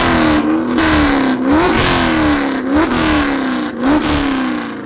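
Car engine being revved repeatedly in quick blips, the pitch jumping up sharply each time and sliding back down, about once a second.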